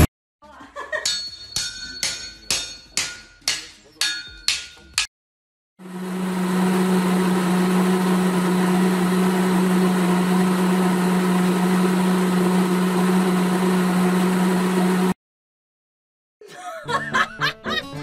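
Electric hand mixer motor running with a steady hum for about nine seconds, then cutting off abruptly. Before it comes a run of about nine sharp ringing strikes, roughly two a second.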